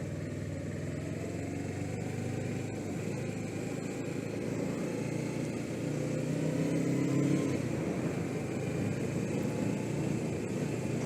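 Suzuki GS500E's parallel-twin engine running under way, with wind and road noise at the helmet microphone. The engine grows louder around the middle and eases off again after about seven and a half seconds.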